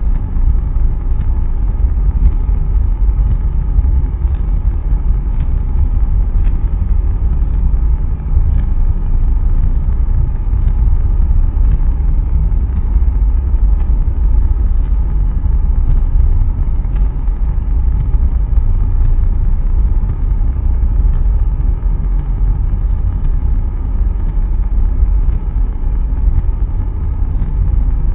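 Blue Origin BE-3U hydrogen rocket engine firing on a hotfire test: a loud, continuous low rumble that holds steady throughout.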